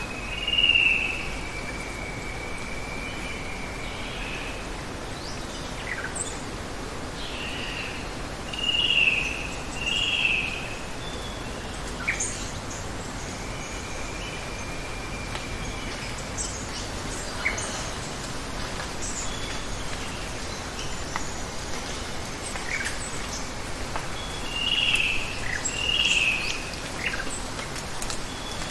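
Birds calling over a steady hiss of running water: long level whistles and pairs of short, loud slurred notes, several times, with scattered brief high chirps.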